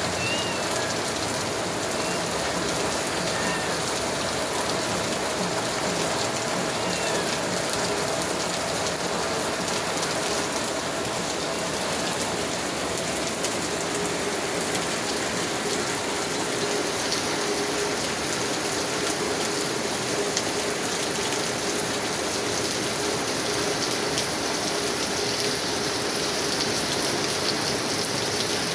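Steady rainfall, an even dense hiss of rain hitting surfaces.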